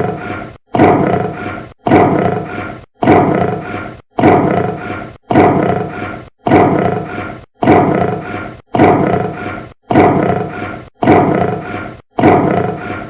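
A large animal's roar-like call, played as a short recording on a loop. It repeats about a dozen times, a little over once a second, each call starting loud and fading away.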